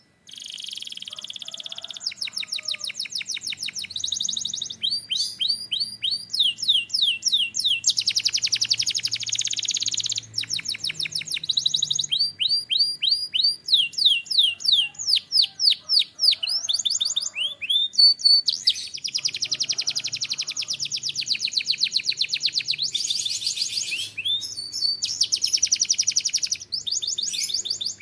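Domestic canary singing a continuous, high-pitched song of rapid trills and rolls. It switches every second or two between runs of fast repeated notes and quick sweeping notes.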